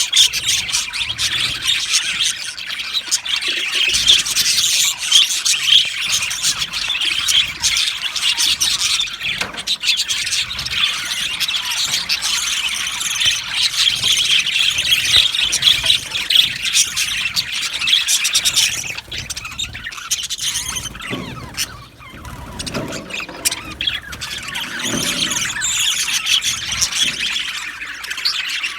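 A flock of budgerigars chattering, chirping and squeaking together continuously, a dense overlapping warble typical of an aviary colony; the chatter thins briefly past the middle before picking up again.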